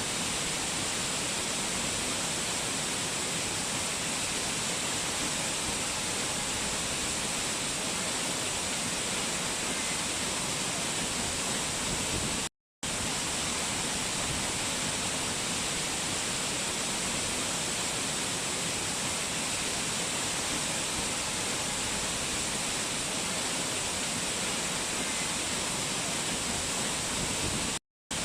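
Rushing water of a mountain waterfall: a steady, even rush. It cuts out to silence for a moment twice, about twelve seconds in and again near the end.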